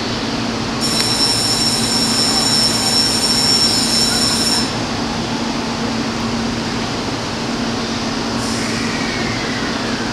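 E657-series electric train standing at a station platform with a steady hum, while a high steady electronic tone sounds for about four seconds as its doors close. Near the end comes a fainter hiss with a short falling tone.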